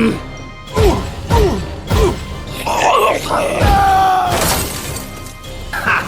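Background music with dramatic sound effects: a quick run of heavy thuds, each with a falling-pitch sweep, in the first two seconds, and another near the middle.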